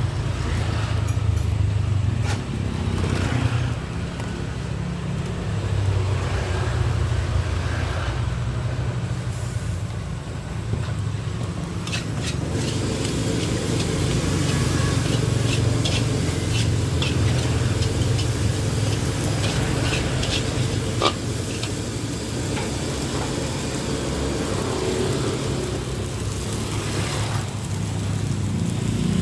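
Nasi goreng frying in a wok, sizzling, with a metal spatula repeatedly striking and scraping the pan, most busily around the middle, over a steady low rumble.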